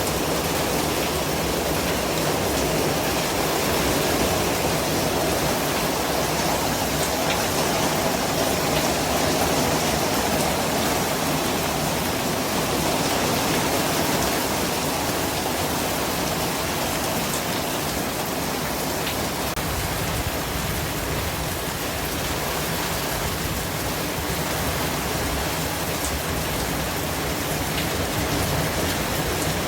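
Steady white-noise hiss that sounds like heavy rain, even across all pitches, with slow gentle swells and a few faint scattered ticks.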